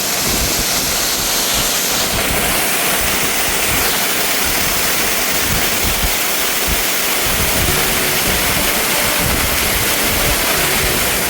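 Waterfall crashing: a loud, steady rush of falling water, with wind buffeting the microphone.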